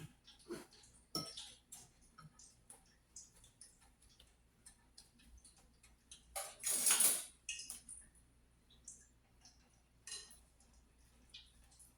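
Kitchen utensil handling at a deep-fry cooking session: scattered light clicks and taps of utensils on pans and dishes, with one short loud hiss about six and a half seconds in.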